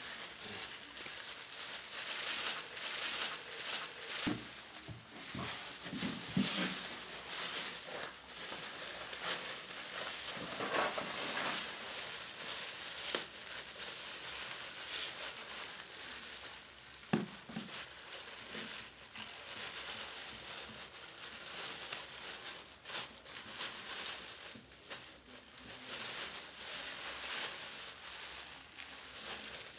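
Plastic bags crinkling and rustling as food is unwrapped from a black plastic bag and a clear plastic wrapper, with a few soft knocks.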